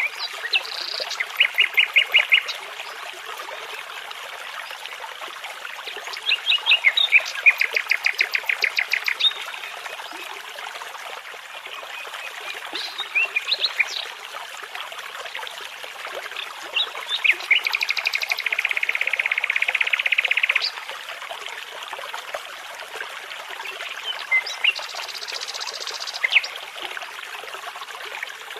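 A nightingale singing in separate phrases of rapid repeated notes, whistles and trills with pauses between them, one long even trill about two-thirds of the way through. Under it runs the steady rushing of a babbling brook.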